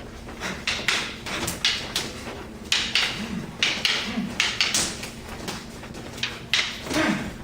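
Feet scuffing and bodies clashing in a fast hand-to-hand gun-disarm exchange: a quick, irregular string of short rustling hits and slaps.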